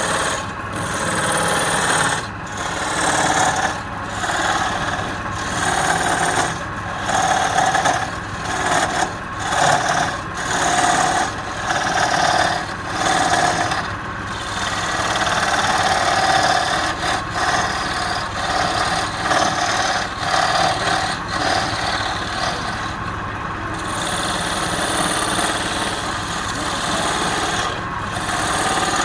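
A hand tool working wood spinning on a running lathe, in repeated strokes about once a second with short breaks as the tool lifts off, over the steady run of the machine.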